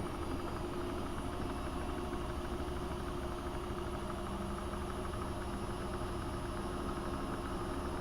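AEG Öko-Lavamat 72520 front-loading washing machine running, a steady motor hum with a few even tones over it and no change in speed.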